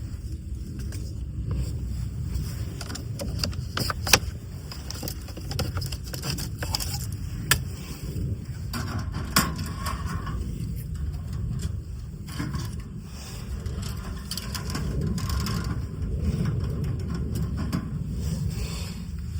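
Steady low rumble of wind on the microphone, with a few sharp cracks or knocks standing out about four, seven and nine seconds in.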